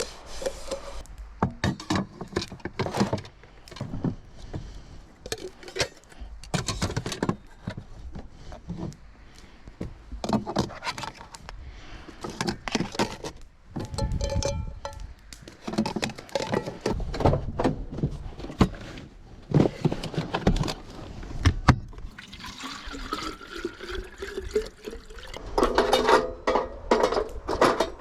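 Water pouring and splashing amid repeated knocks and clatter of things being handled, with a rising tone near the end.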